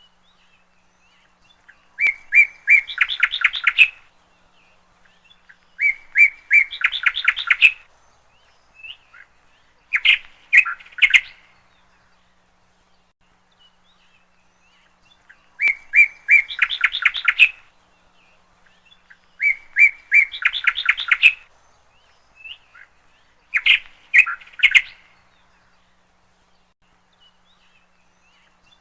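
A songbird singing the same song six times, each a few separate notes running into a fast trill, with pauses of a second or more between songs and a longer pause near the end.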